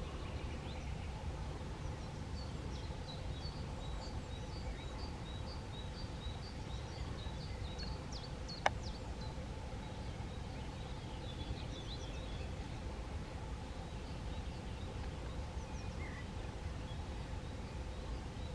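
Outdoor field ambience: a steady low rumble, with a small bird singing a string of short, high, repeated notes about twice a second and a few scattered calls later on. A single sharp click sounds about halfway through.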